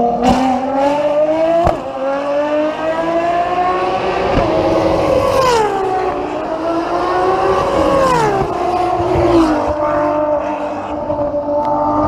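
Ferrari FXX Evolution's V12 engine at high revs under acceleration, the pitch climbing steadily and then dropping sharply at each upshift, twice, with a smaller dip near the end.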